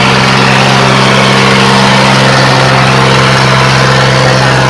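Diesel tractor engine running loud and steady at a constant speed, a rough mechanical clatter over a low, unchanging drone.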